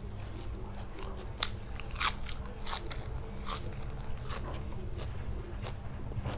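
Close-up eating: a person chewing and biting food with irregular crisp crunches and wet clicks of the mouth, the loudest about two seconds in.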